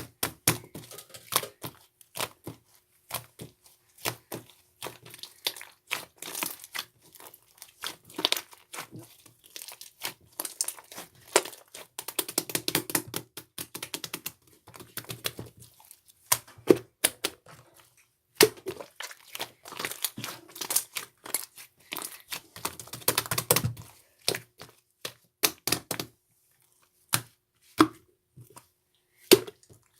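White slime being squished and stretched by hand, making a run of sticky crackles, pops and clicks. It comes in denser bursts with short pauses between them.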